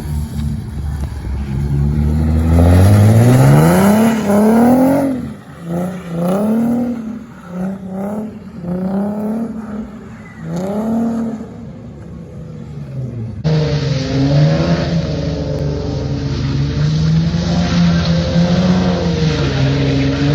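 Nissan 370Z's 3.7-litre V6 through a full ISR exhaust, revving up hard, then rising and falling in a string of short throttle stabs. After an abrupt cut it runs at high revs with the pitch wavering up and down.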